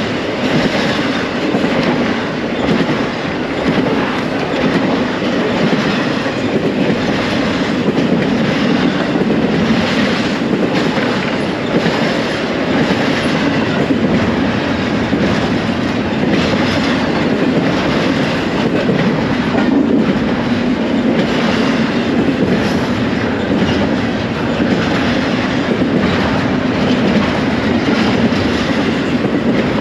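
An intermodal freight train's cars rolling past close by: a steady, loud rumble with a clatter of steel wheels on the rails.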